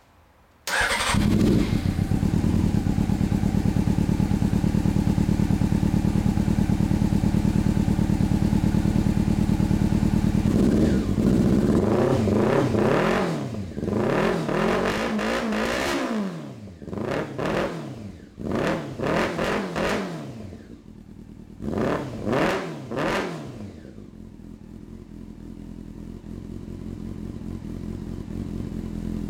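1999 Honda CBR600F4's inline-four firing up through a D&D aftermarket exhaust, starting suddenly under a second in and idling steadily. From about ten seconds in it is revved in a series of throttle blips, each rising and falling back, then settles to idle again.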